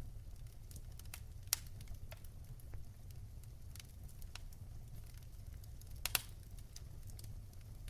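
Fire in a fireplace crackling: scattered sharp pops over a low steady rumble, with one loud pop about a second and a half in and a close pair of loud pops around six seconds in.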